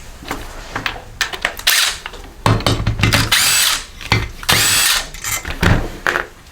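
Power drill backing out the mounting bolts of a small engine's electric starter: two runs of about a second each with a whine that shifts in pitch, with short metallic clicks and knocks between them.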